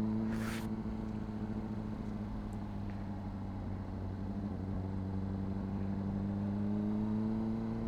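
Honda CBR600RR inline-four with a Yoshimura slip-on exhaust running at steady low cruising revs, its pitch creeping up slightly and easing off again near the end. A brief hiss about half a second in.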